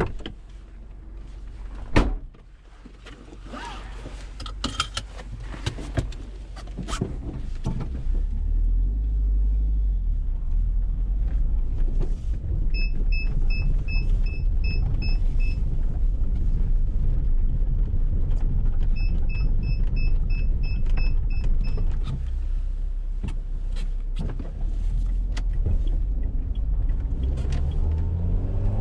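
A car door shuts with a thud, then the Dacia Duster's 1.6 SCe four-cylinder petrol engine runs at low revs with a steady rumble. Two runs of evenly spaced electronic beeps sound in the middle. The revs rise near the end.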